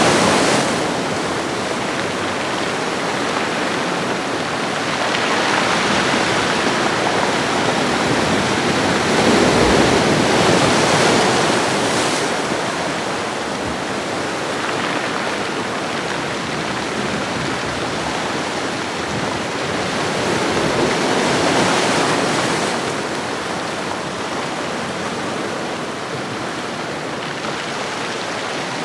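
Ocean waves washing onto a shoreline: a continuous rush of surf that swells and fades, with louder surges about five, ten and twenty-one seconds in.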